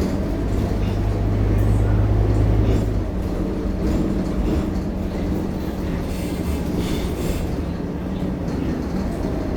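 Scania K230UB bus's five-cylinder diesel engine and road noise as the bus drives, a steady low drone. The deeper engine note eases off about three seconds in.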